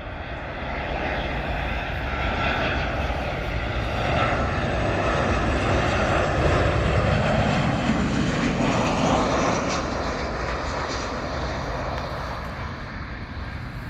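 Boeing 737-700 airliner passing low on landing approach, the noise of its CFM56 turbofan engines swelling to a peak just past the middle and then slowly fading, with a faint whine over the rush.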